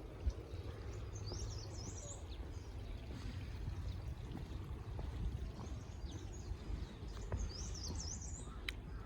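A small bird singing two short, quick, chirping phrases, about a second in and again near the end, over a steady low rumble of outdoor background noise.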